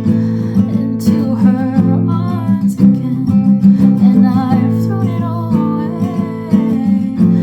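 Acoustic guitar playing chords, with a soft voice singing a slow melody over it.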